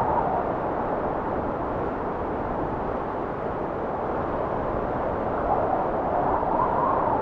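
Blizzard wind blowing as a steady rushing noise, swelling in gusts at the start and again near the end and easing a little in between.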